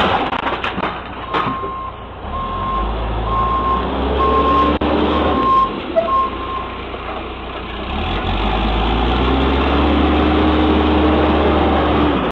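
Backhoe's diesel engine running with its reversing alarm beeping about once a second, six beeps in a row; the engine grows louder in the last few seconds.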